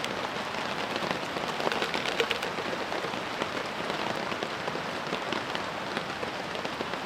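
Steady rain falling on a camp tarp, an even hiss dotted with many small, irregular drop ticks.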